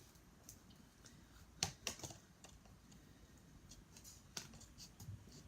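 Small laser-cut plywood model parts being pressed out of their sheet: scattered sharp clicks and snaps, the loudest about one and a half, two and four and a half seconds in, with lighter ticks between.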